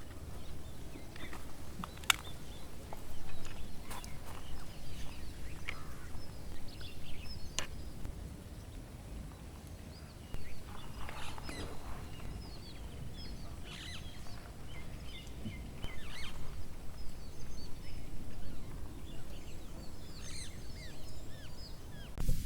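Small birds chirping in short, scattered calls, over a steady low rumble of outdoor background noise, with a few sharp clicks.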